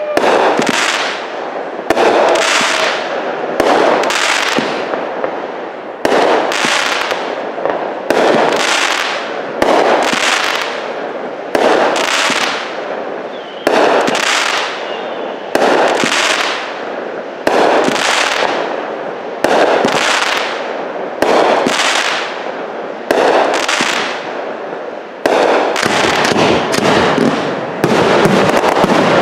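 Aerial firework shells bursting in a display, a loud bang about every two seconds, each followed by a long fading echo. Near the end the bursts come faster, with crackling.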